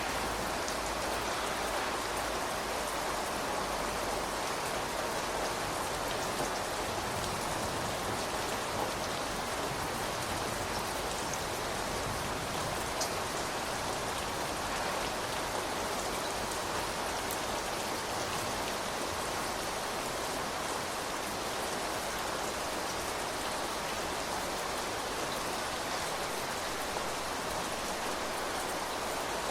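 Steady rain falling, an even hiss with a few louder drop ticks now and then.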